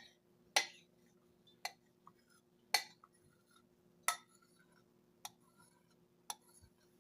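Spoon scraping and tapping against a bowl, giving about six short, sharp clinks roughly a second apart, as food colouring stuck to the bottom is scraped out.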